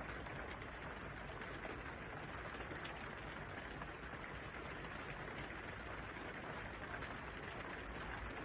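Steady rain falling: an even hiss with a few faint drop taps.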